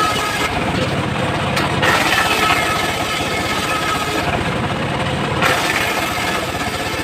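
Homemade circular sawmill running, its blade cutting through a teak log, with a steady motor rumble under the whine of the cut.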